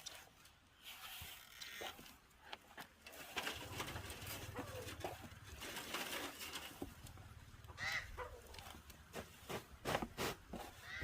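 Birds calling, with scattered knocks and clicks and a low steady hum in the background.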